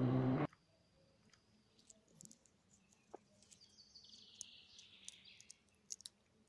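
A rally car's engine at high revs, cut off abruptly half a second in. After it comes a quiet spell of scattered bird chirps and faint clicks, with one falling high call near the middle.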